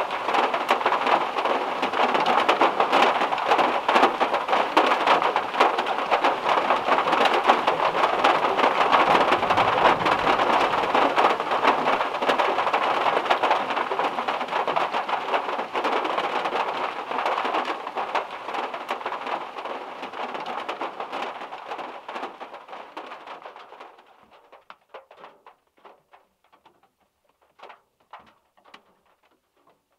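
Heavy rain drumming on the metal roof of a VW Beetle, with a low rumble of thunder about a third of the way through. Near the end the downpour stops abruptly and leaves scattered single drips.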